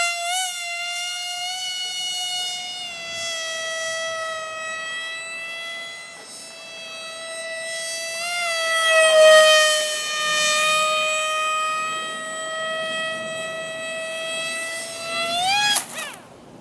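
RC airplane's electric motor whining at a steady throttle setting, with small dips in pitch. Near the end it revs up briefly, then cuts off abruptly.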